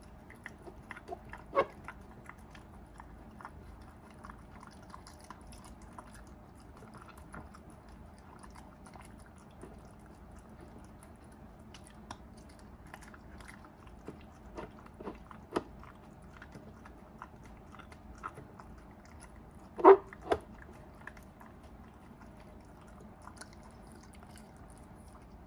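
Shiba Inu eating rice porridge with chicken from a bowl: soft, scattered chewing clicks, with a sharper double knock about twenty seconds in.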